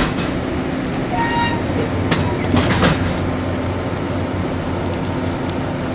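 A train moving past on the adjacent track, its wheels clacking over rail joints several times with a brief high squeal in between, over the steady hum of a stationary train.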